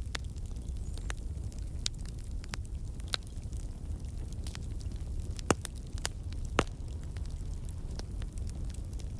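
Campfire logs burning with a steady low rumble of flame and scattered sharp crackles and pops from the wood, the two loudest pops about five and a half and six and a half seconds in.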